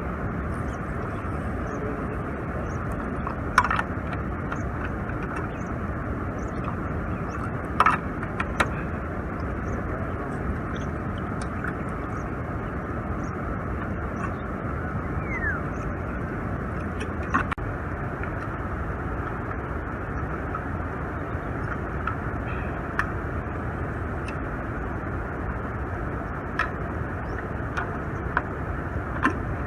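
Steady rushing of a river flowing, with a few sharp clicks or knocks now and then.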